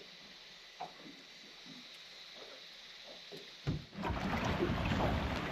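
Faint water lapping and small splashes against a drifting small aluminium boat, then a single knock about three and a half seconds in, followed by a much louder steady rushing noise.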